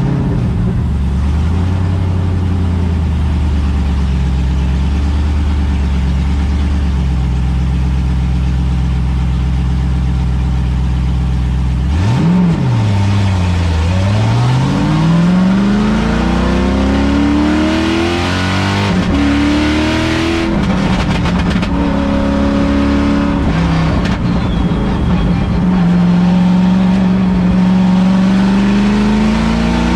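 LS3 V8 engine of a V8-swapped Miata, heard from inside the cabin: a steady low engine note for about the first twelve seconds, then a quick rev and hard acceleration, the pitch climbing and dropping back through several upshifts, and near the end one long slow climb in revs.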